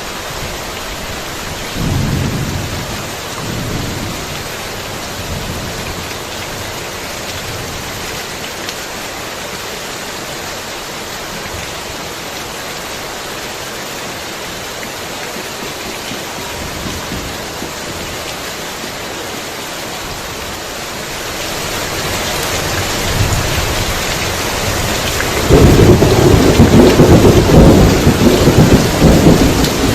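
Heavy rain falling steadily, with a short low rumble of thunder about two seconds in. Past the two-thirds mark the rain grows heavier, and near the end a loud, rolling peal of thunder rumbles for several seconds.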